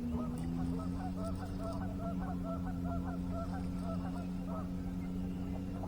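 Geese honking over and over in quick succession, over a steady low hum.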